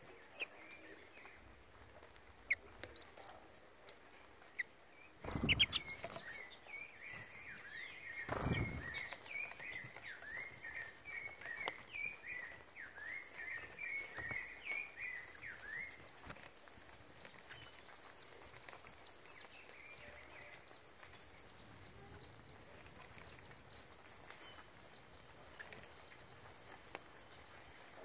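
Small songbirds calling: a rapid chattering run of short chirps, then a long string of thin, very high twittering calls. A few light clicks come before them, and two brief loud whooshes about five and eight seconds in.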